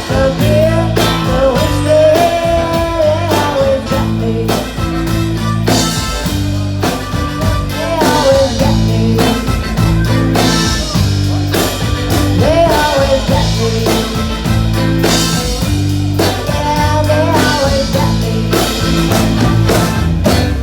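Live band playing a blues-rock number: a steady drum beat and bass, with a bending lead melody line over them.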